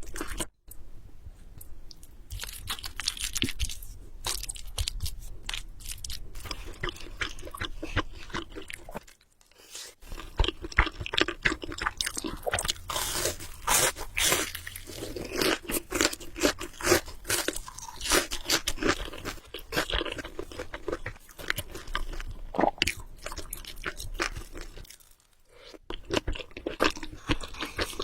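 Close-miked eating sounds: a person chewing and biting food, with many short, irregular wet crunches and mouth clicks. The chewing pauses briefly twice.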